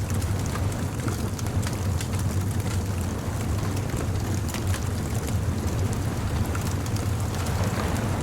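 Beach bonfire crackling, with frequent small pops and snaps over a steady low rumble.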